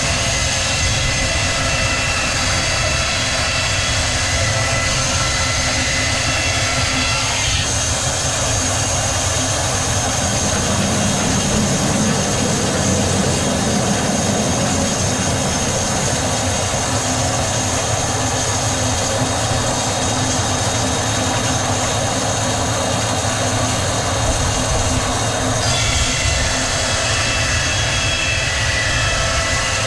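Sawmill machinery running with a loud, steady mechanical drone. The sound changes sharply about seven seconds in, becoming fuller and hissier, and switches back about five seconds before the end.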